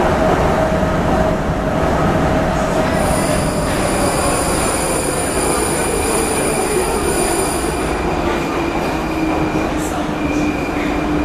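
Prague metro train running through the tunnel with a steady rumble, its motor whine falling steadily in pitch as the train slows. High-pitched wheel squeal joins from about three seconds in and fades out near eight seconds.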